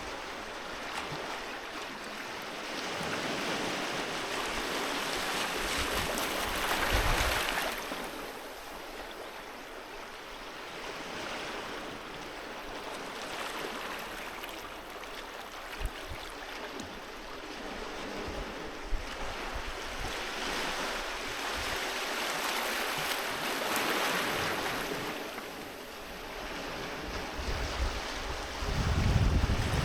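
Sea waves breaking and washing up a beach, the surf swelling louder and falling back in slow surges, loudest about 7 seconds in and again later. A low rumble comes in near the end.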